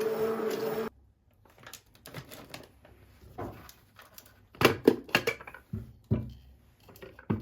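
A steady motor hum cuts off abruptly just under a second in. Then come scattered light taps, clicks and knocks of objects being handled, with a cluster of sharper knocks about halfway through.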